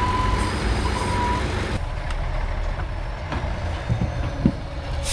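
Heavy off-road truck's diesel engine rumbling low and steady, with two steady high beeps in the first second and a half. The upper part of the sound drops away abruptly about two seconds in.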